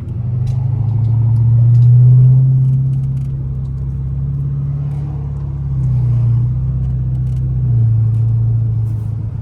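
Chrysler 300's Hemi V8 engine running under throttle with a low steady drone that swells about two seconds in and again later. The owner says the car is lagging and lacks power, which he puts down to a weak battery.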